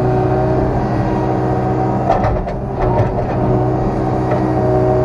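A vehicle engine running steadily at a constant speed, with a few short knocks about two to three seconds in.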